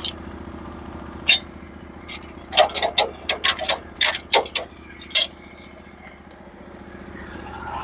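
Portable bandsaw mill's engine running steadily, with a quick run of sharp metallic clicks and clanks from about one to five seconds in, a few of them ringing briefly. The running noise grows louder near the end.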